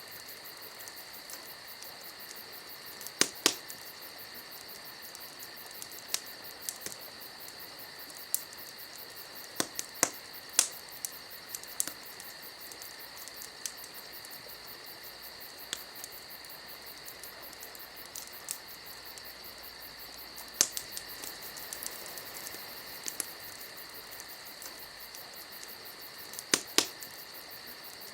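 Wood fire crackling, with irregular sharp pops over a steady high hiss.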